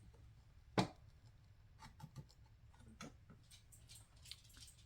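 Small wooden craft pieces being handled and set down: one sharp knock about a second in, then faint scattered clicks.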